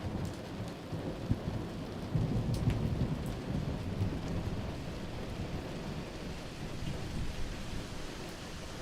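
Steady rain with a low, rolling rumble of thunder that swells about two seconds in and slowly fades. A few small crackles from the wood fire sound over it.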